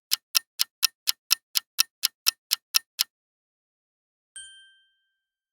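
Countdown-timer sound effect: a clock ticking about four times a second, which stops about three seconds in. About a second later comes a single short, bright ding that fades quickly, signalling that time is up.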